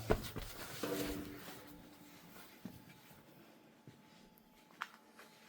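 Quiet room tone with a few faint clicks and knocks, and a brief faint pitched murmur about a second in that fades away.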